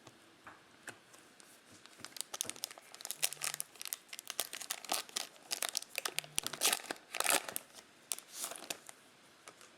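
Foil wrapper of a 2020 Panini Mosaic football card pack being torn open and crinkled by hand: a run of irregular crackles and tears from about two seconds in until near the end.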